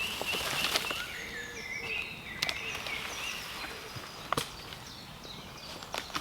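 A few sharp cracks of sticks and twigs, about four spread through, from someone moving about and breaking down a debris shelter of branches and leaf litter. A small songbird sings quick, high chirping phrases throughout.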